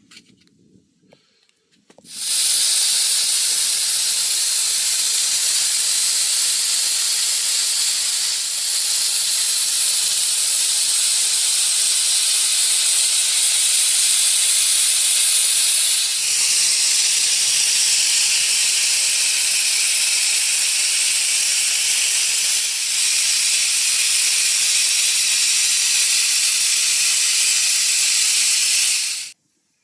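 Heavy rain falling, a loud steady hiss that starts suddenly about two seconds in and cuts off abruptly near the end.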